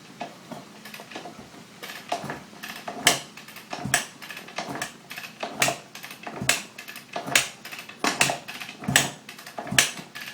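2006 Kawasaki KX250F's single-cylinder four-stroke engine being kicked over repeatedly with the kill button held in, so it turns over without firing, to push the last of the oil out of the drained engine. Each kick gives a sharp metallic clank, a little more than one a second, about ten in all, starting about two seconds in.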